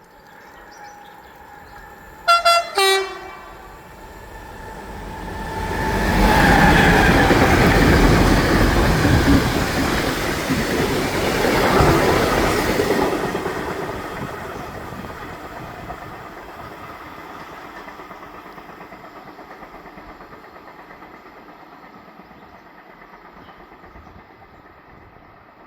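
Freight train passing through a station at speed. The locomotive sounds two short horn blasts, then the rumble and wheel noise of the train swell to a peak and slowly fade as it runs past and away.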